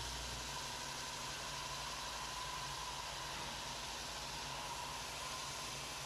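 Belt sander running steadily with wooden handle scales pressed flat against the belt: an even hiss with a faint steady whine.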